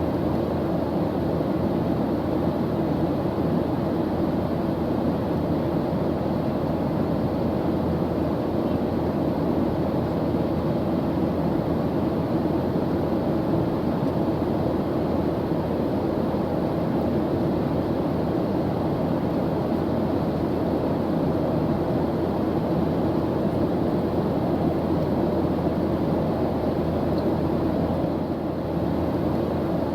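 Airliner engine noise, the steady rumbling drone heard in flight, with no changes.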